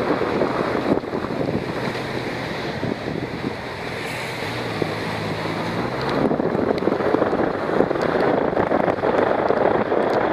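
Wind rushing over the microphone of a camera on a moving motorcycle, with the motorcycle engine's low hum showing through in the middle. The wind grows louder from about six seconds in.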